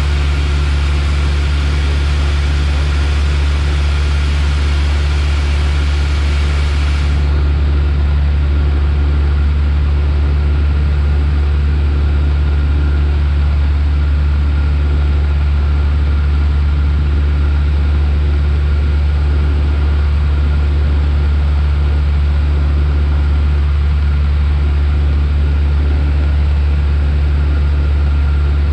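Piper Warrior's four-cylinder Lycoming engine and propeller droning steadily, heard inside the small cockpit. The level holds constant, and the high hiss thins out about seven seconds in.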